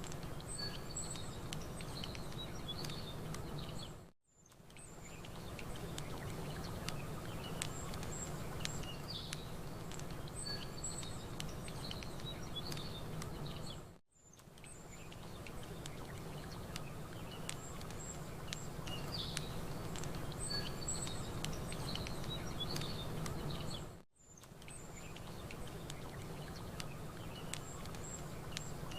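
Campfire crackling with scattered pops over a steady low background, and small birds chirping high above it. The whole sound drops out briefly three times, about ten seconds apart, and fades back in: the seams of a looped ambience track.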